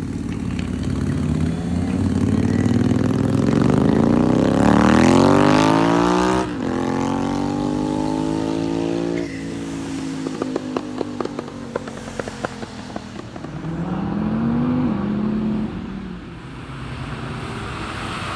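A performance car's engine accelerating hard, its note climbing steeply and then dropping suddenly about six seconds in as it shifts up. The exhaust then crackles and pops, and a shorter rev rises and falls near the end.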